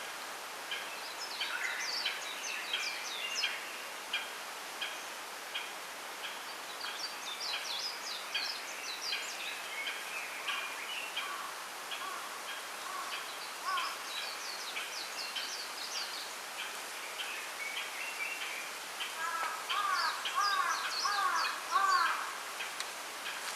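Small birds singing in a bamboo grove: bursts of high warbling song over a short chirp repeated about every two-thirds of a second, against a steady background hiss. Near the end, louder, lower falling calls come in several times.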